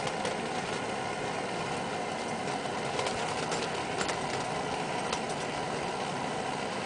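A steady rushing hum with a few faint clicks scattered through it.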